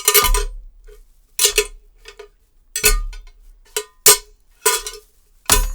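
Foley metal impacts: a small piece of metal is struck or dropped about nine times at uneven intervals, each clank ringing briefly.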